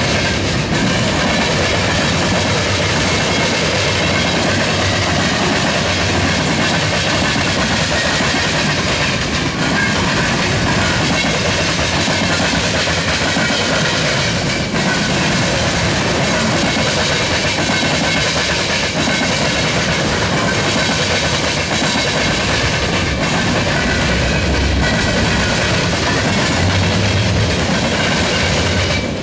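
Freight train cars, tank cars, boxcars and a pipe-loaded gondola, rolling past, their steel wheels clicking over the rails amid a steady, loud rolling noise.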